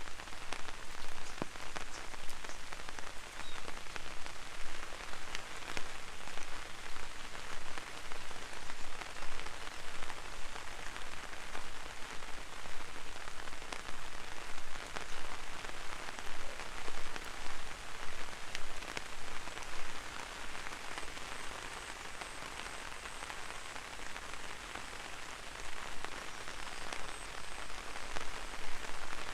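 Light rain falling on an umbrella: a dense spatter of single drop hits over a steady rain hiss. It softens for a few seconds about two-thirds of the way through, then picks up again.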